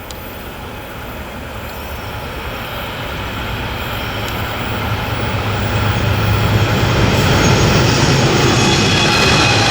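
Diesel-hauled freight train approaching and growing steadily louder: a low locomotive engine drone builds, with higher-pitched wheel and rail noise coming up near the end.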